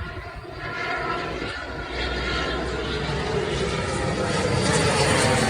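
Aircraft engine noise growing steadily louder.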